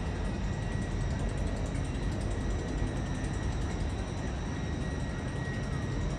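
Steady low rumble of trains in a large railway station, with a faint steady high whine.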